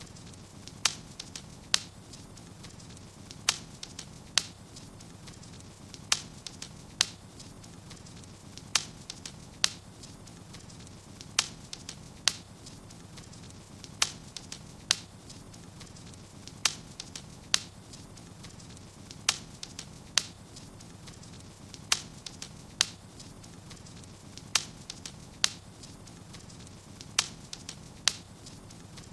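Wood fire burning in a fireplace, crackling with sharp, irregular pops, roughly one or two a second.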